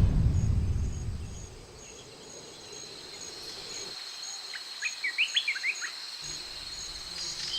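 Forest insects: a steady high trill with a regular chirp about twice a second, joined about five seconds in by a bird's burst of quick rising chirps. A loud low rumbling noise fades out over the first second and a half.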